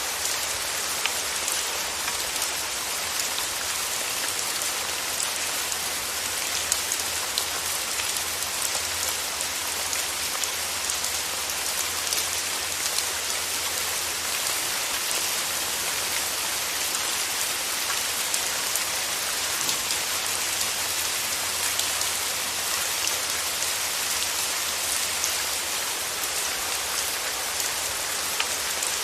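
Steady rain falling: an even, dense hiss with scattered individual drops ticking through it.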